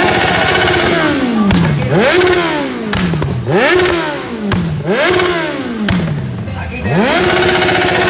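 Kawasaki Z1000's inline-four engine being revved in repeated throttle blips, about five: each time the pitch climbs quickly, hangs at a steady top note, then falls away slowly. The last rev is held at the top for longer.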